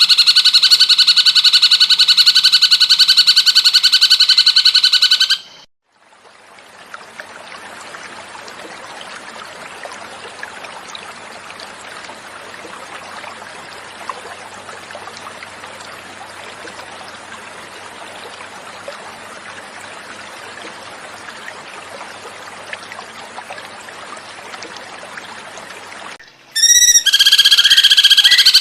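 Recorded cucak cungkok song: a loud, fast, rattling trill that cuts off about five seconds in, giving way to about twenty seconds of flowing-water sound, after which the bird comes back near the end with a few short notes and the trill again.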